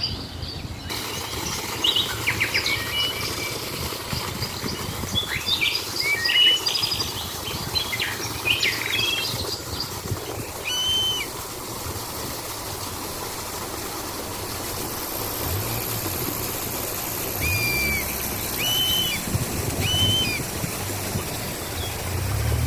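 Several songbirds chirping and calling in short, quick phrases over a steady outdoor hiss. The calls thin out after about ten seconds to a few repeated arched notes, while low rumbles come and go in the second half.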